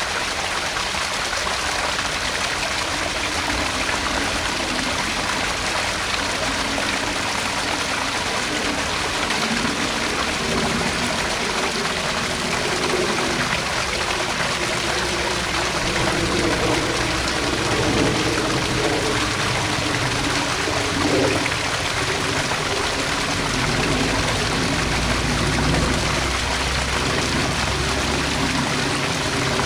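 Small garden pond waterfall: water steadily splashing and trickling into the pond.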